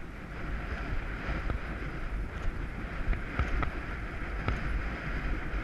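Wind buffeting an action camera's microphone while riding at speed: a steady low rumble and hiss, broken by scattered sharp clicks.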